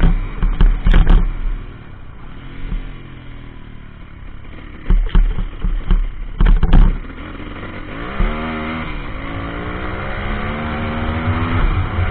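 140cc pit bike's single-cylinder engine running during a ride, revving up with a sharp rise in pitch about eight seconds in and climbing again near the end. Loud short knocks cut across it about half a second in and again around five and six and a half seconds.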